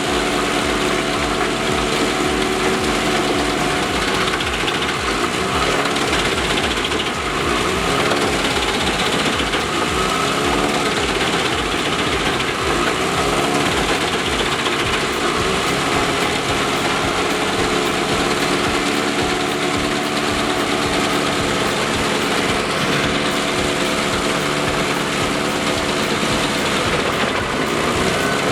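Large wood chipper's diesel engine running steadily. Its pitch sags and recovers several times in the first half, then holds steady.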